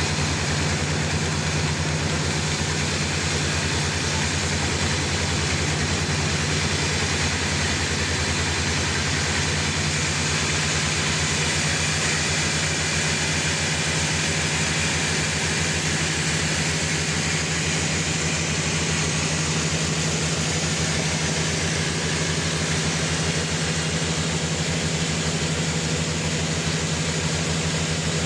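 Sawmill's engine running steadily, a constant low hum with a broad hiss over it and no change in pitch or load.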